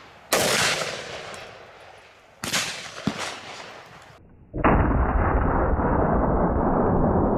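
Desert Eagle .50 AE pistol fired twice, about two seconds apart, each shot ringing out and dying away. About four and a half seconds in, a loud steady rushing noise takes over.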